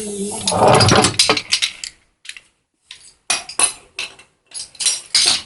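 Metal tools or washing-machine parts clinking and clattering against each other in a string of short, sharp clinks, after a brief falling creak at the start.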